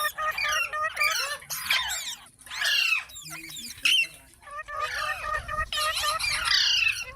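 Several rose-ringed parakeets chattering, with many quick overlapping squawks and chirps.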